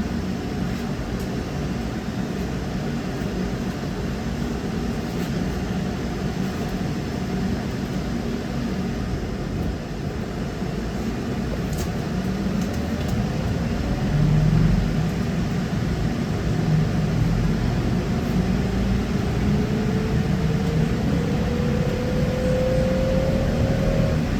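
Trolleybus running along the road, heard from inside the passenger cabin: a steady rumble of the ride. Over the last several seconds an electric motor whine rises slowly in pitch as the trolleybus speeds up.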